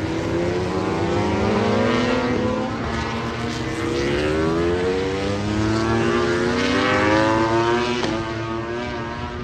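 Racing motorcycle engines accelerating hard: the high engine note climbs, drops back at each upshift, and climbs again several times.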